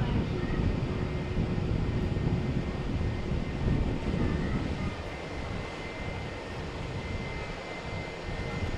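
Jet airliner engines rumbling, with a faint high steady whine in the second half; the rumble eases a little in the middle and swells again near the end.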